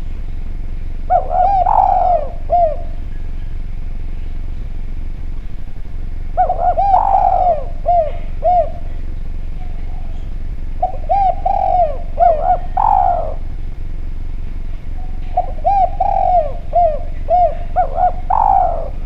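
Derkuku (spotted dove) cooing: four call phrases about four to five seconds apart. Each phrase is a quick run of short coos with one louder, upswept note. A steady low hum runs underneath.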